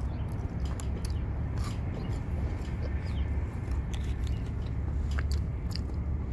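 A person chewing a bite of chicken McNugget close to the microphone, with small scattered clicks and crackles, over a steady low rumble.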